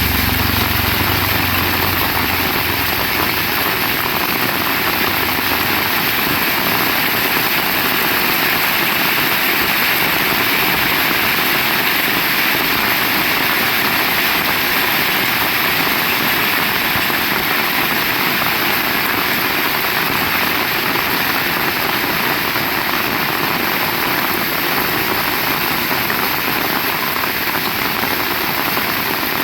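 Heavy rain falling steadily: a loud, dense, even hiss. A low rumble in the first couple of seconds fades away.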